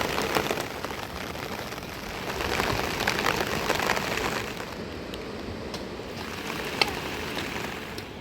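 Rain falling steadily: a dense hiss of drops with scattered sharp ticks, easing a little about halfway through.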